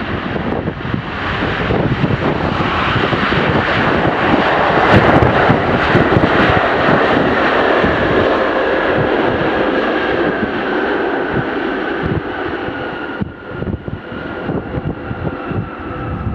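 Jet airliner engines passing close by: a loud roar that builds, peaks after about five seconds and then fades, with a whine that slowly falls in pitch. Near the end there is gusting wind noise on the microphone.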